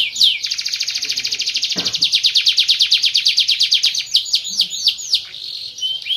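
Domestic canary singing: a few quick falling whistled notes, then a long, very fast trill of rapidly repeated notes lasting about three and a half seconds, then slower falling notes again.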